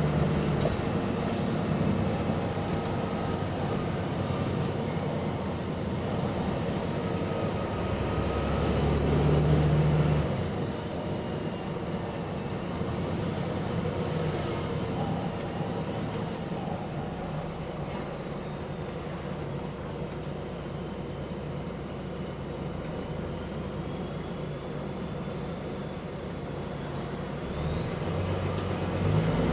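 Bus diesel engine heard from on board while driving, building up to a peak about ten seconds in, easing off, then building again near the end, with a thin high whine gliding up and down. The bus has an exhaust leak.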